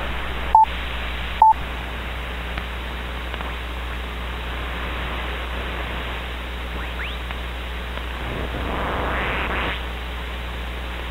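CB radio receiver hiss on an empty 11-metre channel, limited to a 4 kHz receive bandwidth, with two short high beeps near the start. Faint traces of a distant signal come and go later on.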